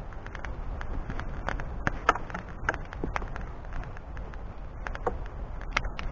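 Wood fire crackling, with irregular sharp pops and snaps of burning wood over a steady low rumble of wind on the microphone.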